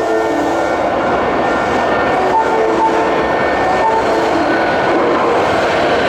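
Subway train running alongside the platform in an underground station: a steady loud rumble of wheels and motors, with short pitched tones at a few different notes over it near the start and again about halfway through.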